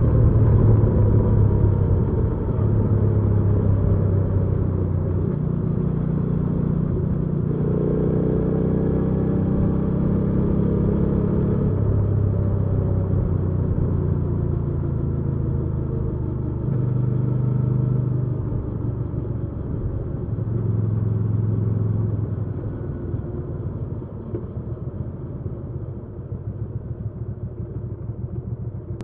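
Hyosung GV300S Aquila's V-twin engine running as the motorcycle is ridden. Its pitch shifts up and down in steps several times. Over the last few seconds it turns quieter and more uneven.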